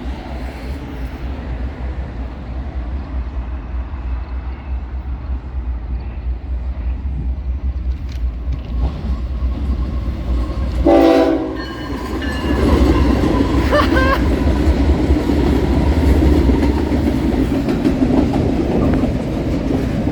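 A train approaching with a low rumble gives one short horn blast about eleven seconds in, then passes close by with a loud rush of wheels on rails and some high squealing. The late, close horn was sounded by the engineer to startle the trackside onlooker.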